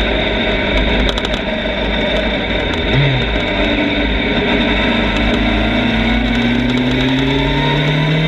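Motorcycle engine running on the move: a short blip of the throttle about three seconds in, then the revs climbing slowly and steadily for several seconds before dropping back near the end.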